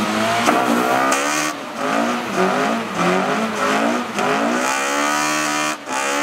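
K20-swapped Honda Civic engine revving up and down several times over, with its front tyres spinning in a smoky burnout.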